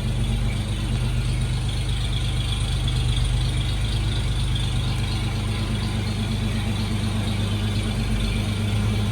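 1955 Chevrolet 3100 pickup's rebuilt straight-six engine idling steadily.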